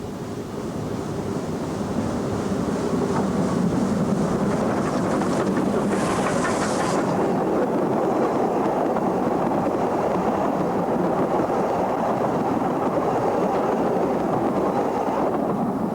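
Narrow-gauge steam train running past, growing louder over the first two seconds and then holding steady, with a hiss lasting about a second some six seconds in.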